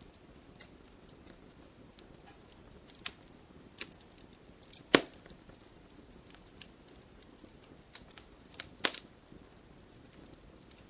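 Campfire crackling: scattered sharp snaps and pops over a low hiss, with two louder pops, one about five seconds in and one about nine seconds in.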